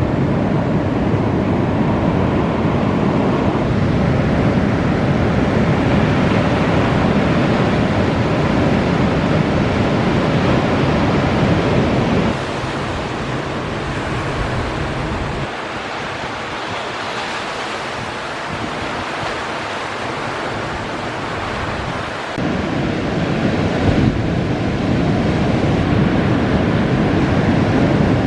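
Ocean surf rushing and breaking, with wind buffeting the microphone. The sound drops abruptly to a quieter, thinner rush about twelve seconds in and comes back just as abruptly about ten seconds later.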